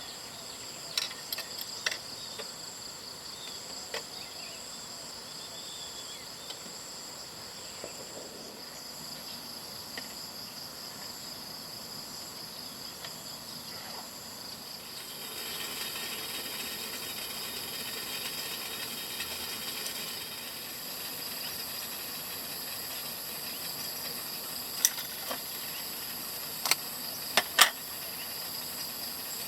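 Steady chorus of crickets and other insects: several high ringing tones that thicken and grow a little louder about halfway through, with a few sharp clicks near the start and again near the end.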